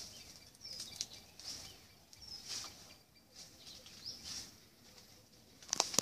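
Small birds chirping in the surrounding scrub: a scatter of short, high calls, with a louder, sharper call shortly before the end.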